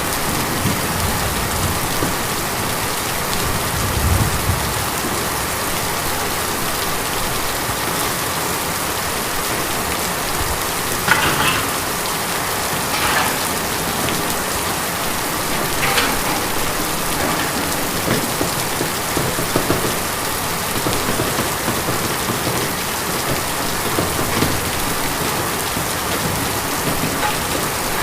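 Steady rain falling on a tin roof, with a few louder drops striking now and then.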